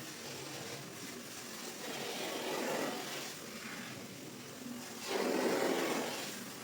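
Long wet swishing strokes worked across a soaked shaggy rug during washing, three swells about two to three seconds apart, the last the loudest.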